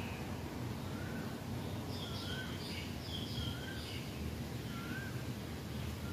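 Birds calling in the garden: a short up-and-down whistled note repeated about once a second, with a cluster of higher, quicker chirps in the middle, over a steady low background rumble.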